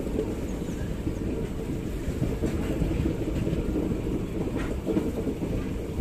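Express train coaches running along the track, heard from an open coach doorway: a steady low rumble of wheels on rails, with a few faint clicks about four to five seconds in.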